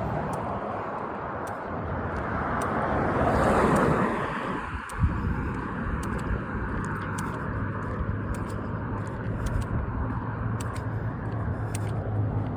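A car driving past on the road, rising and fading about four seconds in, with a short thump just after. Near the end the low steady hum of another vehicle's engine comes in. Faint regular ticks of footsteps on the road run throughout.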